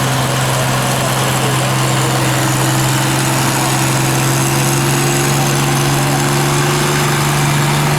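Dodge Power Wagon truck engine running steadily, its pitch creeping up slightly over a few seconds.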